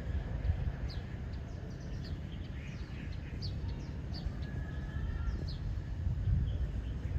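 Birds chirping: a scatter of short, high, downward-sliding notes, with one longer held whistle near the middle, over a steady low rumble.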